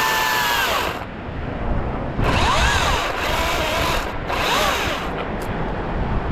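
Chainsaw cutting in bursts, its whine rising and falling in pitch with each throttle. The first burst stops about a second in, a longer one runs from about two seconds in, and a short one follows near the middle.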